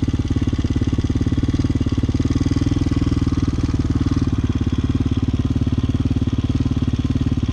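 Hawk 250cc motorcycle engine running steadily at low revs with a fast, even pulse.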